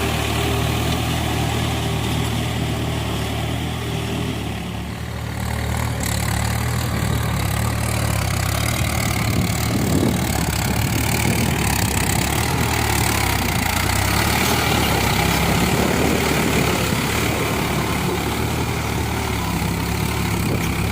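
Tractor engine running steadily with a low hum; about five seconds in it dips briefly, then runs on with a rougher, noisier sound.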